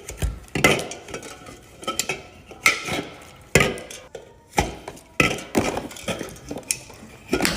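Drink cans and bottles being unpacked and set down into a fridge: a series of separate knocks and clinks, roughly one every half second to second, with rustling handling in between.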